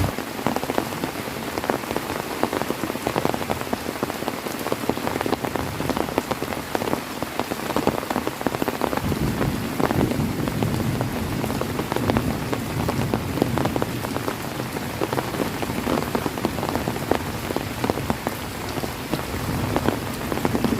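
Heavy rain falling steadily on a surface: a dense hiss full of individual drop impacts.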